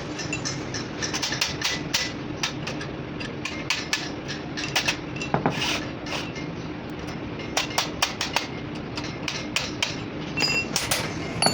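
Irregular hammer strikes, some in quick clusters, over a steady low hum.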